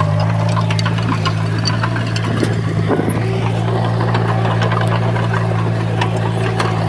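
Diesel engine of heavy earthmoving machinery running steadily at a constant speed, with scattered metallic clicks and rattles over it.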